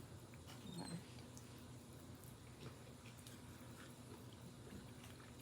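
Near silence: quiet room tone with a few faint clicks and soft mouth sounds of someone eating.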